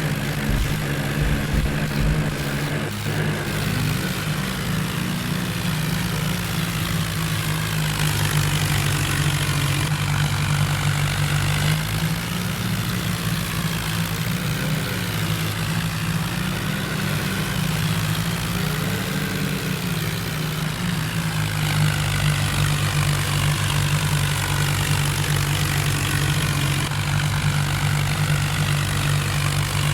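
John Deere tractor's diesel engine running steadily at a low, even speed, its pitch wavering up and down a little in the middle.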